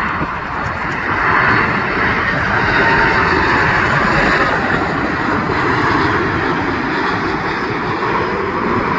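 Airliner engine noise from a low-passing plane: loud and steady, swelling slightly early on and holding.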